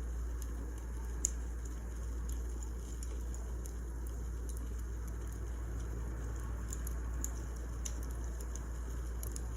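Burning firewood crackling: irregular small pops and snaps over a steady low rumble.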